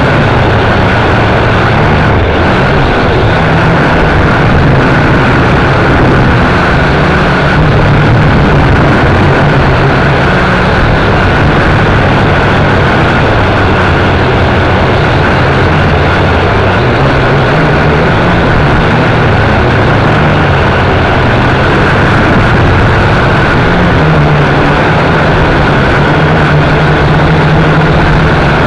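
WL V959 quadcopter's small electric motors and propellers running continuously, a loud steady whine heard close up from the craft's own onboard camera, with the lower pitch shifting slightly as the throttle changes.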